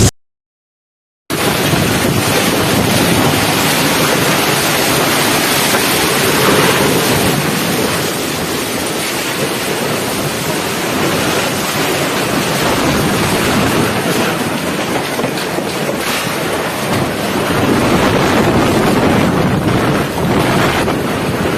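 Strong storm wind gusting steadily and buffeting the microphone, with brief swells in strength. The sound drops out to total silence for about a second at the very start.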